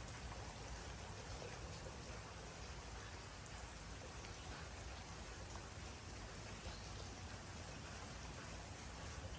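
Steady rainfall, an even hiss of many raindrops with scattered faint drop ticks and a low rumble underneath.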